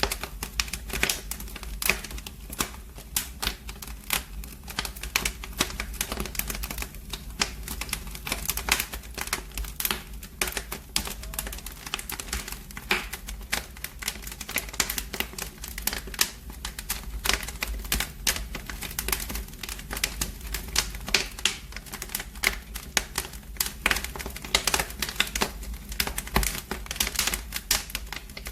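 Wood fire in a fireplace crackling: irregular sharp pops and snaps several times a second over a steady low rumble.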